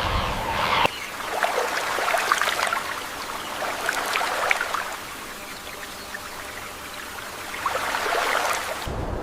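Running water trickling and splashing, a steady wash with many small splashes. About a second in it changes abruptly as a low rumble drops out.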